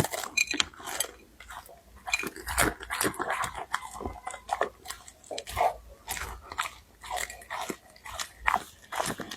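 A Labrador eating noisily: a quick, irregular run of wet mouth smacks and clicks as it chews.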